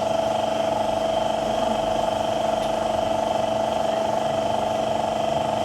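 Suzuki Cultus engine, freshly overhauled, running steadily at idle.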